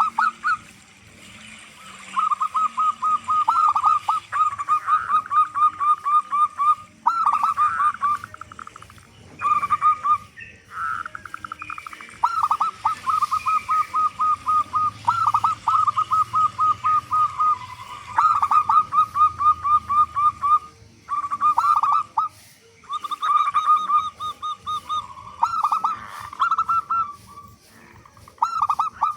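Zebra doves (perkutut) cooing: rapid runs of short, evenly spaced coos at one pitch, in repeated phrases broken by brief pauses.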